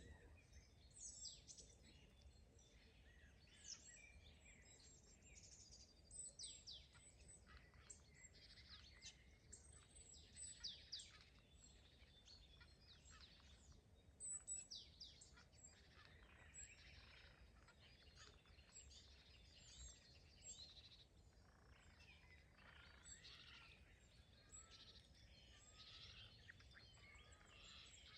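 Faint chorus of several songbirds singing and chirping, with many short high chirps and quick falling notes overlapping throughout, over a low steady background hum.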